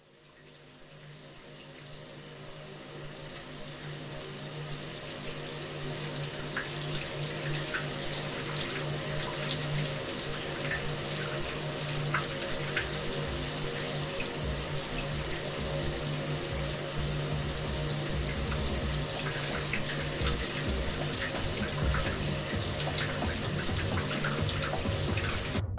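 Shower water running steadily. It fades in over the first few seconds and cuts off abruptly near the end, with a steady low hum underneath.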